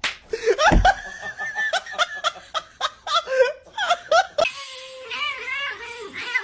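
A person laughing hard in short, choppy bursts. About four and a half seconds in, the laughter cuts off suddenly and a wavering, drawn-out animal call follows.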